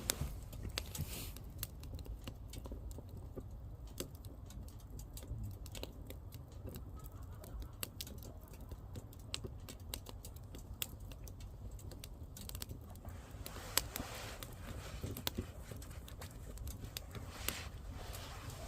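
Firewood burning: a steady stream of sharp crackles and pops over the low rumble of the fire, with a few brief hissing spells.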